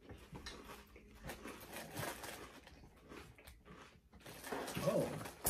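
Mouths chewing and crunching Frosted Flakes cereal with string cheese, in faint, irregular crisp crunches. Near the end a dog whines briefly.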